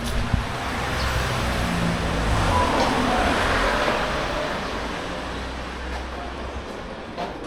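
Road vehicle passing: its engine and tyre noise swells to a peak about three seconds in, then fades away.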